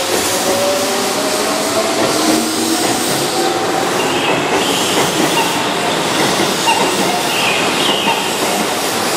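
Keihan 6000 series electric train (set 6011, still running on its original traction motors) passing through a station at speed without stopping: a loud, steady rumble of wheels on rail, with a faint motor tone near the start and two brief high wheel squeals, about four and eight seconds in.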